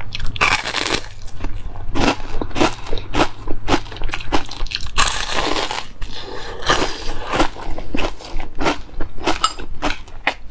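A person chewing and crunching food close to the microphone: a run of wet chews and crisp crunches, a few of them longer and crackly.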